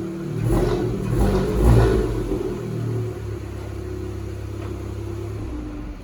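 Engine idling, revved up in a few quick blips, then settling back to idle before shutting off near the end.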